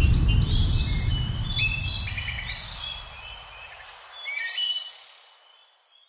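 Birds chirping and tweeting in quick, repeated high calls, over the low rumble of a boom dying away during the first few seconds. The chirps come in two bursts, and all of it fades out shortly before the end.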